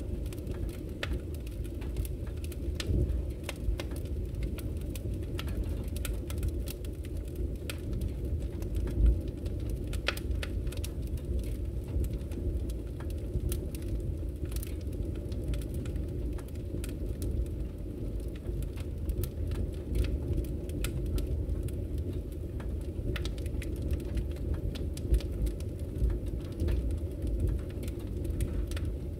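Wood fire crackling in a fireplace: frequent small, irregular pops and snaps over a low steady rumble, with one louder pop about nine seconds in.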